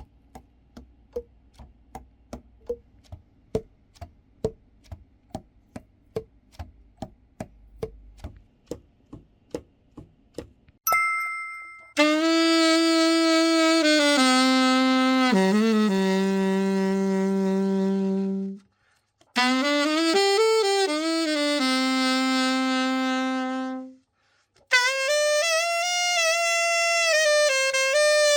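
A run of light, evenly spaced clicks for about the first ten seconds, a short chime, then a Selmer Balanced Action alto saxophone playing three slow phrases of long held notes with a few pitch slides, as a play test after its full overhaul.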